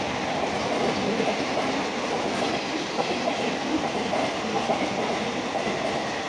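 A train passing through the station at speed: a steady, continuous noise of wheels running on the rails.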